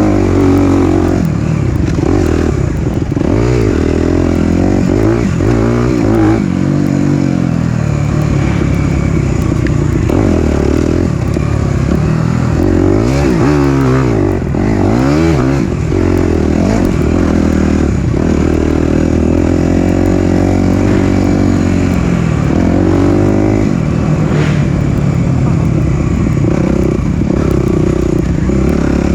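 Four-stroke dirt bike engine under load on a trail, revving up and falling off again and again as the throttle is worked, its pitch rising and dropping every second or two.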